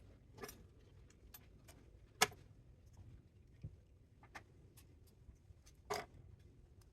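Scattered light metallic clicks and taps of hand tools and small parts being handled while a spot welder is dismantled for scrap, with a sharper clank about two seconds in and another near six seconds.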